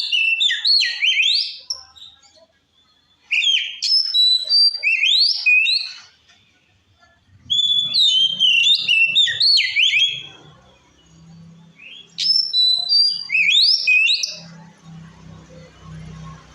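Oriental magpie-robin (kacer) singing in full, loud voice: four bursts of rapid whistled and sweeping notes, each a couple of seconds long, with short pauses between them.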